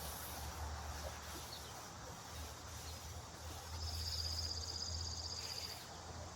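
A low steady rumble, with a high, rapid trill starting about four seconds in and lasting about two seconds.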